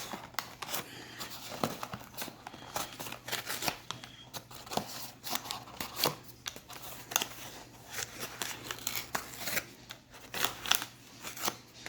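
Irregular scratching, crinkling and crunching of hands working a box packed with cornstarch and tapioca starch, many small sharp crackles with no steady rhythm.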